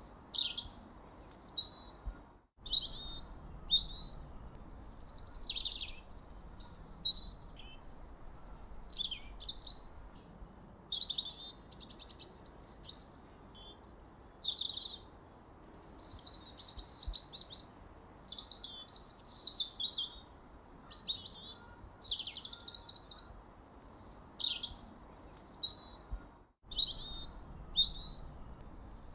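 Birds chirping and singing without pause: quick high chirps and short falling whistled notes, one after another, over a faint steady background hiss. The sound cuts out completely for an instant twice, about two and a half seconds in and again near the end.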